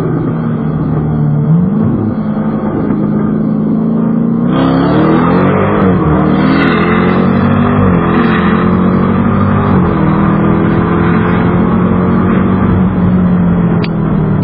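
Jeep Grand Cherokee Trackhawk's supercharged 6.2-litre V8 under hard acceleration, heard from inside the cabin. It opens up louder about four and a half seconds in, then the engine note climbs and drops back with each upshift, several times in a row.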